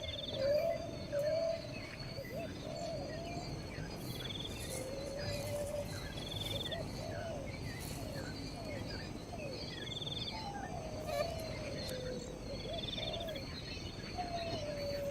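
Birds calling outdoors over a steady background of insects: low sliding whistled calls and scattered short chirps, with a short buzzy trill repeating every few seconds.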